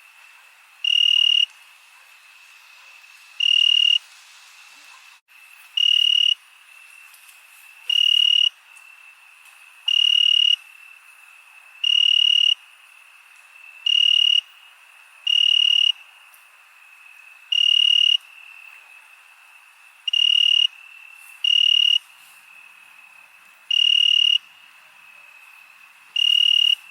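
A cricket chirping loudly in high, pitched bursts about half a second long, repeating roughly every two seconds. Underneath is a steady, faint high trill of more crickets.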